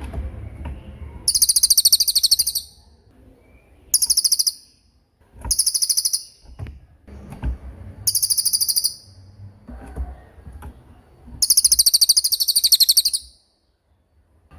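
A small songbird giving five rapid, very high-pitched rolling trills, each lasting about half a second to two seconds, with short pauses between them.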